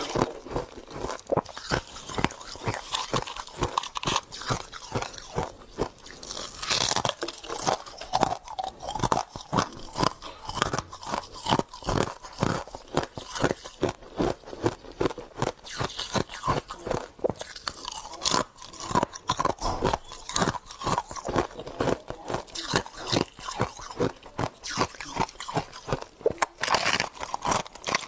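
Close-up crunching and chewing of frozen freezer frost in the mouth: a dense, irregular run of crisp crackles and crunches.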